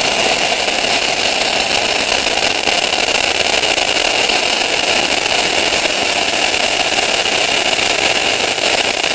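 Multi-shot firework cake in its finale: a dense, unbroken barrage of crackling bursts that cuts off suddenly at the end.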